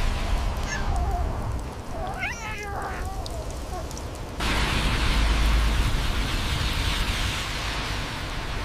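A cat meowing: a short faint call about a second in, then a clearer rising-and-falling meow about two and a half seconds in, over a steady background hiss.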